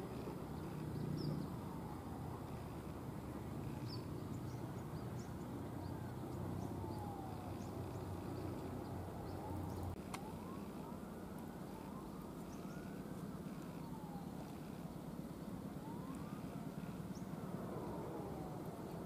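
A distant passenger train runs on the line with a low, steady rumble that is strongest in the first half. Repeated high whistling glides rise and fall over it, and there is a sharp click about ten seconds in.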